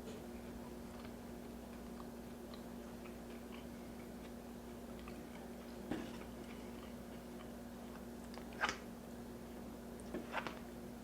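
Close-miked eating: soft chewing and small mouth clicks, with a few louder bites about six seconds in, near nine seconds, and twice near the end. A steady low hum runs underneath.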